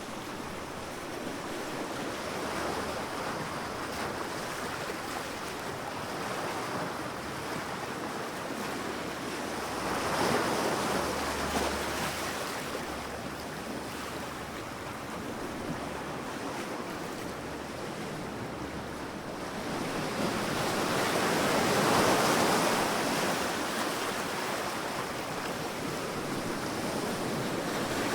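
Sea waves washing onto a beach, a steady rush of surf that swells as waves break, most strongly about ten seconds in and again two-thirds of the way through.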